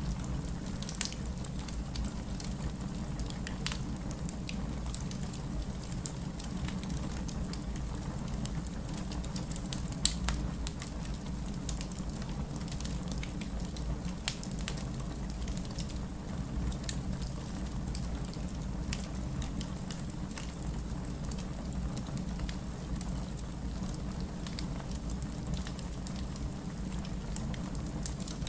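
Wood fire burning: a steady low rumble of flames with frequent sharp crackles and pops of burning logs, the loudest pop about ten seconds in.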